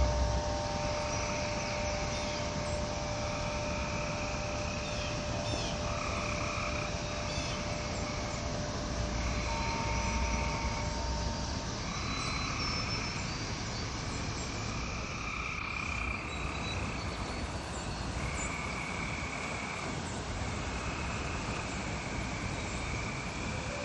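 A chorus of frogs calling in repeated trills, each about a second long, one after another. Wind chime tones ring on underneath and die away about halfway through.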